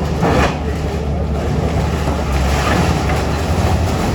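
Wind buffeting the microphone over a steady low rumble, with a brief louder gust about half a second in.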